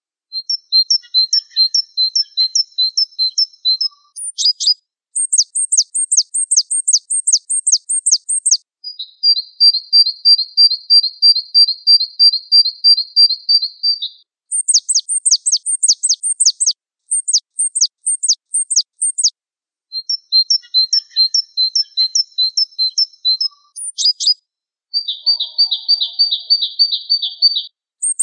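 Gelatik wingko songbird singing high-pitched phrases of rapid, repeated sharp notes, with short breaks between phrases and one long, even trill about a third of the way in.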